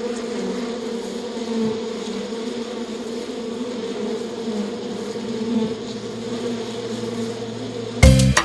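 Bees buzzing in a steady, continuous hum. Upbeat marimba music cuts in abruptly at the very end.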